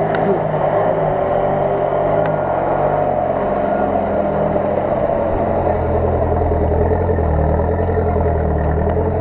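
Off-road 4x4's engine running steadily close by, its note shifting lower about halfway through.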